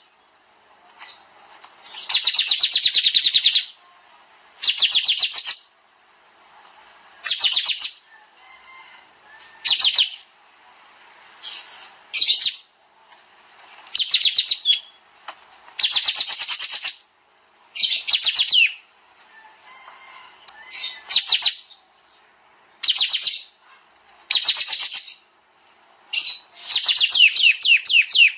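Kapas tembak bird singing its rapid-fire 'tembak' song: loud, high, fast trilled bursts of clipped notes, each lasting under a second to nearly two seconds, repeated every second or two with short pauses between.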